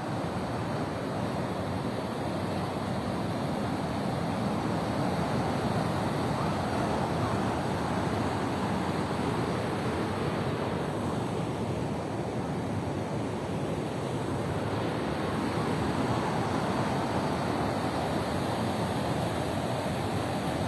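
Flash-flood water rushing past in a steady, unbroken wash of noise.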